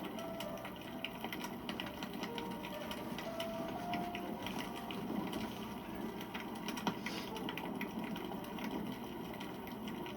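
Wood campfire burning: a steady hiss of flame with dense, irregular crackling and popping of the burning wood, and a few brief thin whistles.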